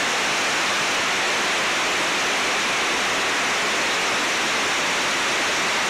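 Onogawa Fudō Falls, a waterfall, rushing in a steady, unbroken noise that stays even throughout.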